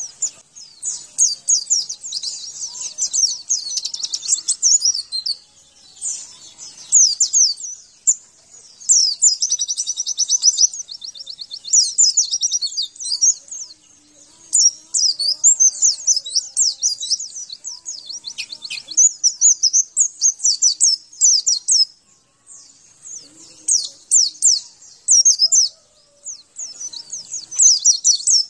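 White-eye (pleci) song: long runs of rapid, high twittering notes in phrases lasting one to several seconds, broken by short pauses.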